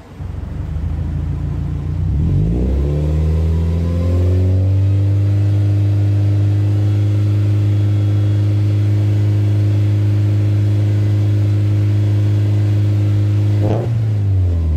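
Subaru Forester XT's turbocharged flat-four, freshly fitted with a Blouch 20G-XT turbo, rises in revs from idle over a few seconds and holds at a steady raised rpm. Near the end the revs drop back quickly. The engine is being run up on its first warm-up after the turbo swap, to listen for any turbo noises.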